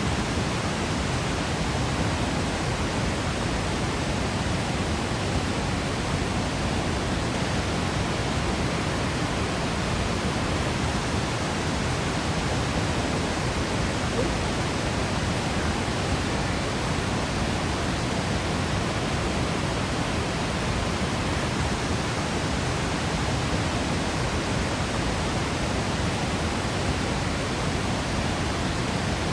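Waterfall in Yosemite: a steady, even rush of falling water, unchanging throughout.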